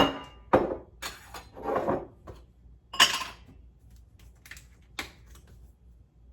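Spice containers being handled on a kitchen counter: a sharp knock at the start, then several short plastic clicks and clatters over the next few seconds before it goes still.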